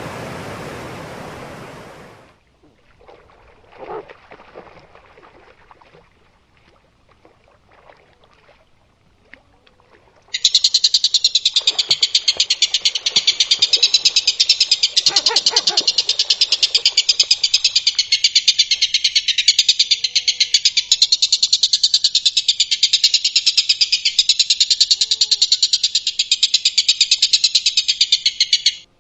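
A loud, high, rapid buzzing trill from a calling animal, a dense unbroken train of pulses that starts about ten seconds in, holds steady and cuts off sharply just before the end. Before it there are a couple of seconds of hiss and then faint scattered sounds.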